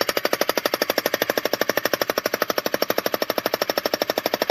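Bosch electric jackhammer hammering steadily into a geode rock, a rapid, even run of strikes, to break it open.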